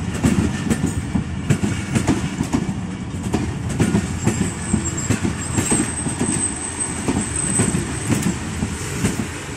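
Pakistan Railways passenger coaches rolling past close by: a steady rumble with a rapid clatter of wheels over rail joints. A thin high squeal of wheels on rail joins in about four seconds in and lasts about four seconds.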